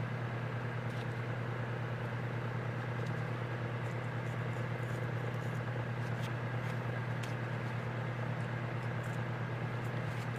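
A steady low mechanical hum throughout, with a few faint clicks and scrapes of hand tools working old gasket material off a carburetor.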